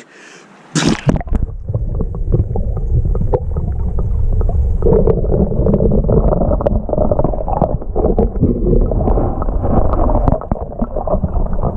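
A splash about a second in, then a continuous low, muffled rumble of churning creek water with crackles and gurgles, as from a microphone dipped into the water.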